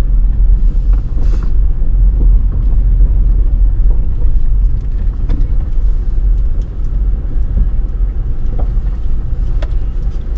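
A car driving, heard as a loud, steady low rumble of road and engine noise.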